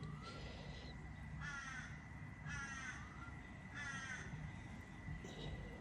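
A crow cawing faintly: three harsh caws about a second apart in the middle, with weaker calls near the start and near the end.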